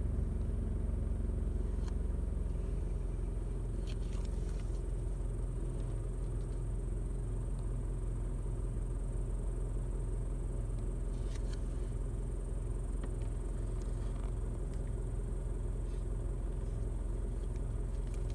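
Steady low rumble of a car's engine running, heard from inside the cabin.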